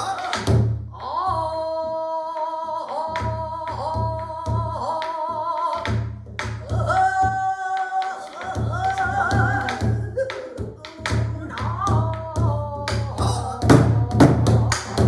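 Pansori singing: a voice holds long, wavering notes, accompanied by a buk barrel drum beating out a rhythm of deep head strokes and sharp knocks on the wooden rim. The drum strokes come harder and denser near the end.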